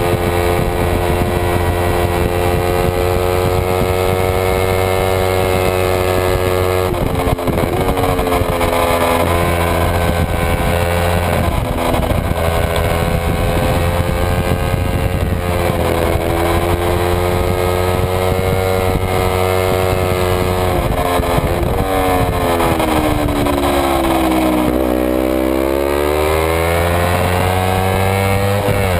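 Kawasaki Ninja 250 parallel-twin engine running hard at racing revs, heard onboard. Its pitch holds high but breaks briefly several times, then falls slowly and climbs back near the end.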